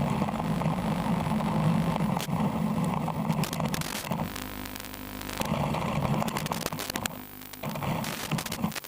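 Small RC car driving, heard as an uneven rumbling hiss broken by crackles and scrapes, with a brief lull about seven seconds in.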